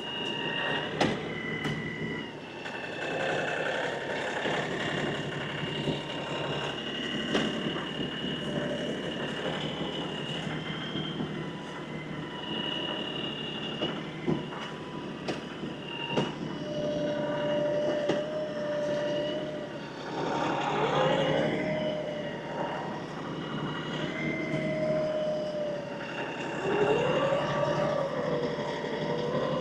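LS XR315 compact diesel tractor running under load while its loader works a grapple, the engine and hydraulics giving a steady drone with a high whine. Twice, near the middle and near the end, the pitch swings up and down as the engine is worked harder, with occasional sharp clanks.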